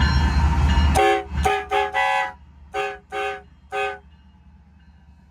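Loud low rumble of the passing freight train that cuts off abruptly about a second in, followed by a locomotive air horn giving about seven short blasts in quick succession, each a chord of several tones.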